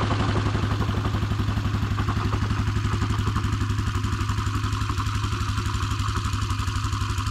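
Yamaha Cygnus X scooter's single-cylinder four-stroke engine idling with a fast, even pulse. This is the engine whose intermittent idle noise the owner traced to a chipped ball in the crankshaft's drive-side bearing.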